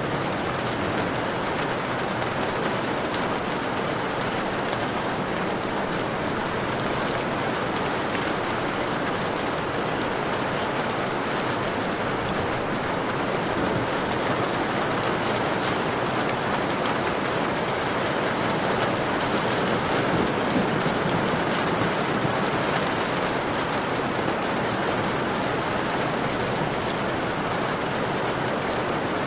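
Steady rain falling and drops pattering on a window pane, an even hiss with many small drop ticks.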